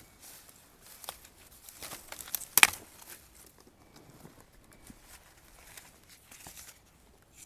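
Rustling and crackling of dry bamboo litter with scattered snaps, and one sharp, loud crack about two and a half seconds in, as a young bamboo shoot is worked and twisted out of the ground by hand.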